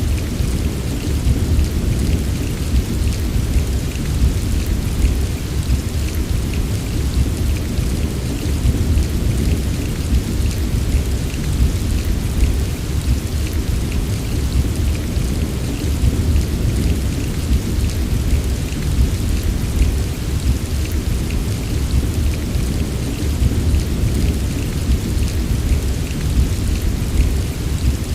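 Steady heavy rain: an even, unbroken hiss of falling rain over a continuous low rumble, with fine drop ticks scattered through it.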